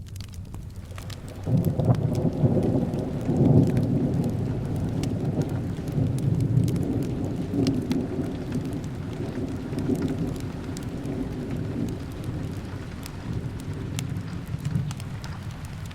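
A long roll of thunder starts suddenly about one and a half seconds in, is loudest for the next few seconds and slowly dies away, over steady rain and the soft crackle of a fireplace.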